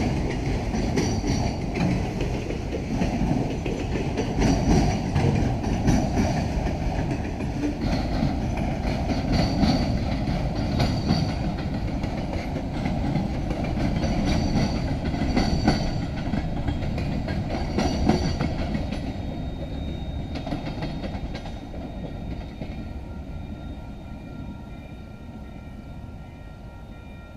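Union Pacific freight train rolling past, its wheels clattering over the rail joints with brief high wheel squeals recurring every second or so. The sound fades away in the last several seconds as the train moves off.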